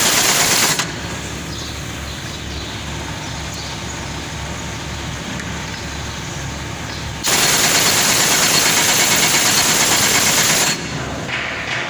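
Engine running with a heavy, rapid clatter after a main-bearing job, loudest briefly at the start and again for about three seconds in the middle, as the throttle is opened.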